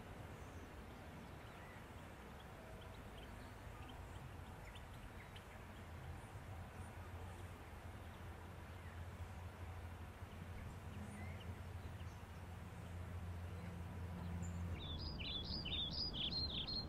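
Faint outdoor ambience: a low steady rumble with scattered faint bird chirps, slowly growing louder. Near the end a songbird sings a short phrase of quick, arching high notes.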